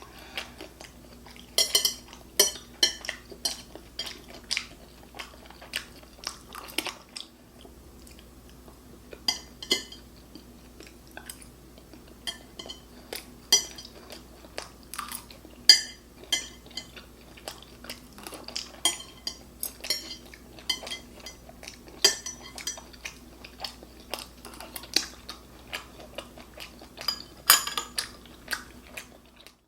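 Eating utensils clinking and tapping against a bowl and dishes, many short sharp clicks at an uneven pace, with some chewing in between. A faint steady low hum lies underneath.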